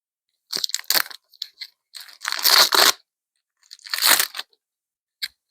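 Foil booster pack wrapper crinkling and tearing open in three rustling bursts, with a small click near the end.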